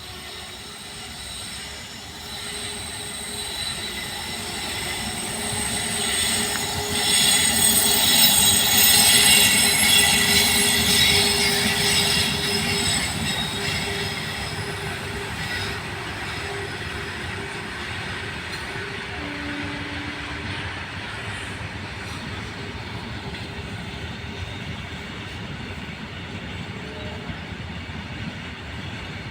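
A train running past at speed: wheels squealing on the rails, loudest about seven to twelve seconds in, then the running noise of the train fades and holds at a lower, steady level.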